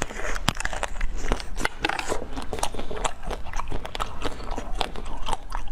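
Close-miked eating: biting and chewing with many sharp crunches and crackles, several a second.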